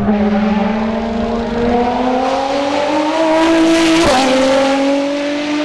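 High-performance car engine accelerating hard, its pitch climbing steadily, then dropping with an upshift about four seconds in before climbing again.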